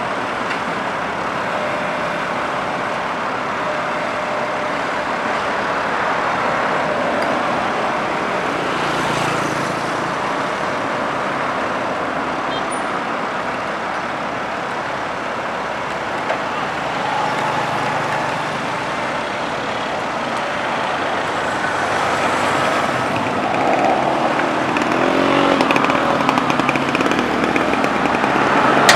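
Heavy diesel machinery running steadily, growing louder over the last few seconds.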